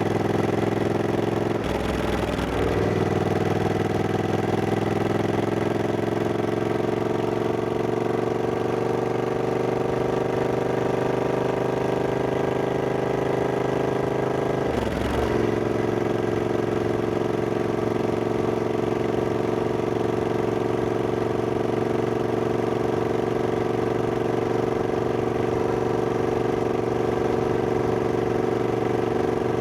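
Triumph Scrambler 1200X's 1200 cc parallel-twin engine running under way. Its note climbs slowly in pitch as the bike pulls. It breaks off briefly twice, about two seconds in and again about fifteen seconds in, as gears are changed, then holds a steady cruising pitch.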